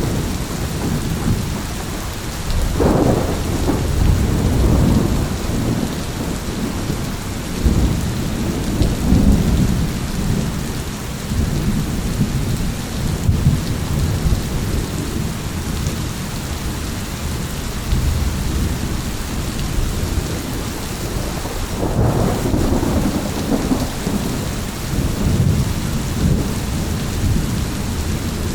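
Thunderstorm: steady rain with rolling thunder rumbling through, swelling louder about three seconds in and again about twenty-two seconds in.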